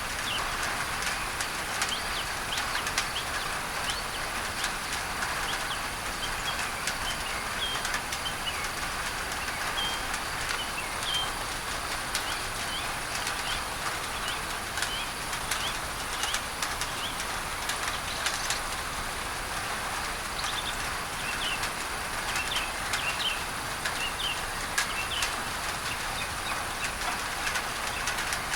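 Rain on a tin roof: a dense patter of sharp drop ticks over a steady hiss of masking noise, with birds chirping in short, high calls throughout.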